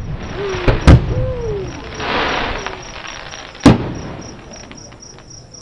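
Fireworks shells bursting about a mile away: sharp bangs about a second in, the second the loudest, and another near four seconds, with a hiss of noise between them. Crickets chirp steadily in a high, pulsing trill.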